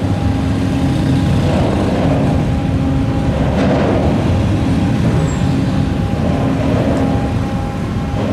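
Large car ferry's engines running with a low, steady rumble and a constant hum, swelling now and then.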